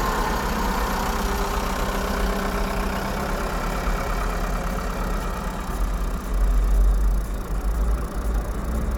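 Vehicle engine idling while stopped, a steady low rumble that swells for a couple of seconds about six seconds in.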